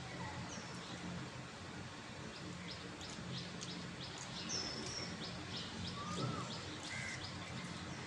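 Birds chirping in the background: scattered short high chirps and a few brief calls that slide in pitch, over a steady low hum.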